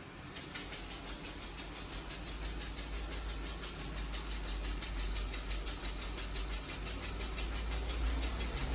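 An electric motor in the iRobot Roomba Plus 405 Combo robot vacuum system starts up and runs with a fast, even pulsing and a low hum, slowly growing louder.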